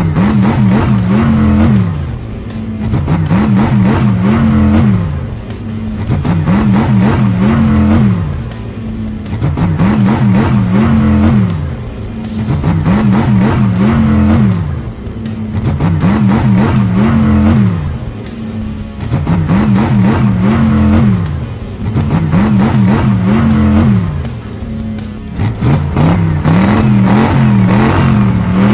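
Looped cartoon monster truck engine sound effect, revving up and dropping back about every two seconds in a steady repeating cycle, over background music.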